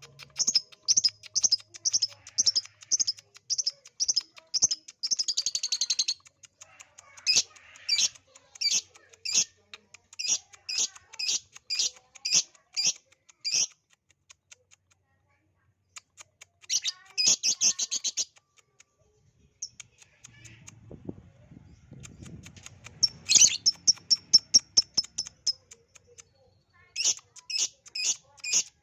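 Lovebird song: sharp, high chirps repeated about three times a second, broken a few times by fast rattling trills. This is the kind of lovebird call played as a trigger ('pancingan') to set other lovebirds singing.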